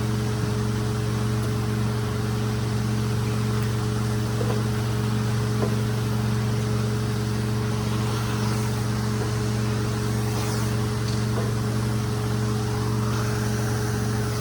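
A rug-cleaning machine running steadily: a constant motor hum with an even hiss, and a few faint ticks.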